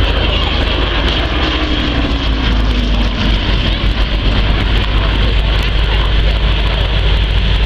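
Aircraft flying past in an airshow display, a steady engine noise whose pitch falls slightly about two or three seconds in, over a constant low rumble.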